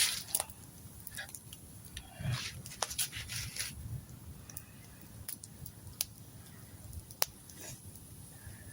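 Wood campfire crackling, with irregular sharp pops and snaps every second or so over a faint steady hiss.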